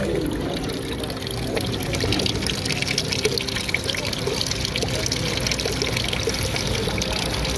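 Water running and splashing steadily down a garden waterfall fountain, a continuous trickle and patter.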